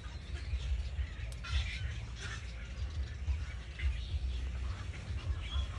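Small bird giving short, scattered chirps, over a steady low rumble.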